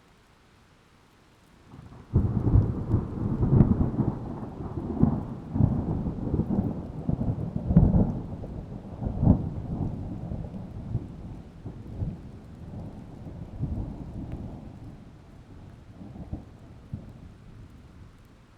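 Typhoon wind gusts buffeting the microphone over heavy rain, starting suddenly about two seconds in, swelling and ebbing in loud surges, then slowly dying down.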